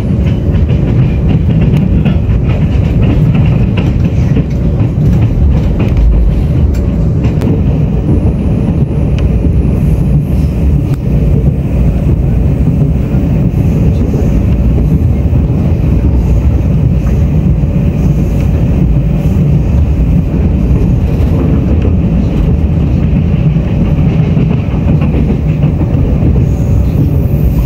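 Steady, loud low rumble of a Taiwan Railway Tze-Chiang express train running along the line, heard from inside the passenger car: wheels on rail and running gear.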